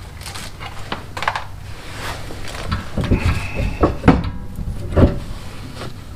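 Clinks and knocks of metal hand tools and brake parts being handled, with a short metallic ring a little after three seconds and sharper knocks about four and five seconds in.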